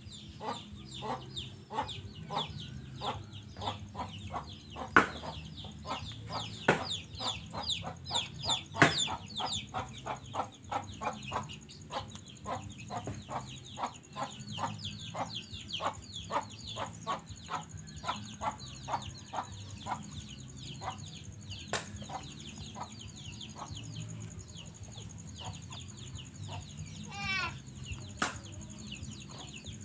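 Short, quick bird calls, about two or three a second and thinning out later, of the clucking or peeping kind heard from poultry, over a steady high-pitched whine. A few sharp clicks stand out.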